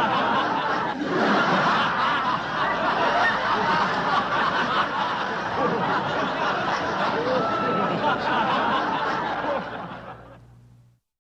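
A crowd of many people laughing together in a dense, continuous wash of overlapping laughs. It fades away about ten seconds in, then stops.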